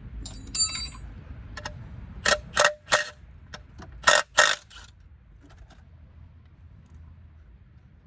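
Hand tools and metal parts clinking and knocking during work on a car's front suspension: a ringing metal clink about half a second in, then five sharp knocks, three close together and two more about a second later.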